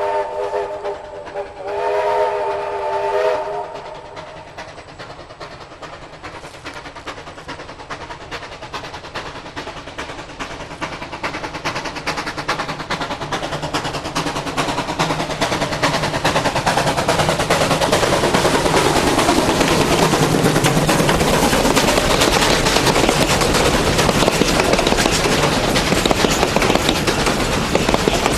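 Steam locomotive's whistle sounding in two blasts, then the train approaching and getting steadily louder until it runs close by with a loud rumble and hiss.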